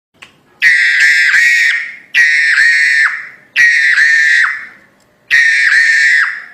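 Crested myna (jalak hongkong) giving four loud, harsh screeching calls in a row, each lasting over a second with a dipping whistled note inside it.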